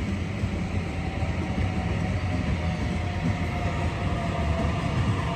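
Mariyung D-set electric multiple-unit train pulling out of the station: a steady low rumble with a faint electric motor whine.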